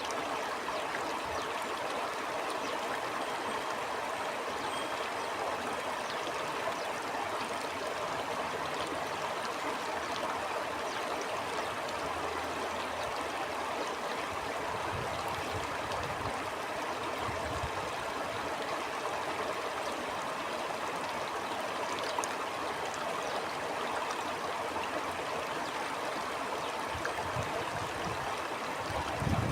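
A stream of water flowing steadily over stones, an even rushing and gurgling. A few soft low rumbles come and go in the middle and near the end.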